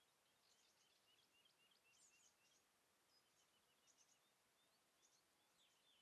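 Faint birdsong: several birds giving many short, high chirps and twitters in scattered clusters over a faint hiss. Near the end, a run of repeated downward-slurred notes begins.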